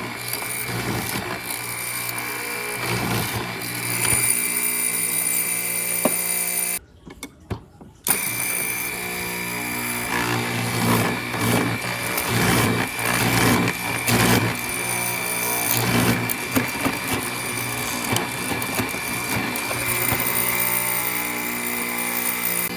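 Workshop power tool running with a steady motor hum and a high whine, over irregular knocks and scrapes of wood being worked. The sound cuts out for about a second a third of the way in, then carries on.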